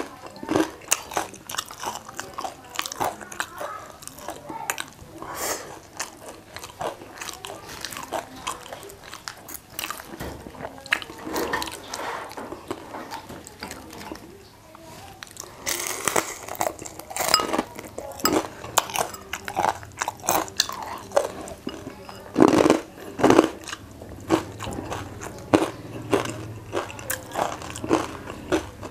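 Crunching and chewing of crispy battered deep-fried chicken wings: many short, irregular crunches as the crisp coating is bitten and chewed, a little louder about halfway through and again near the end.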